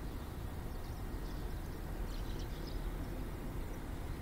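Tobu Tojo Line electric train running slowly past at a distance, a steady low rumble. Faint high chirps come through a few times.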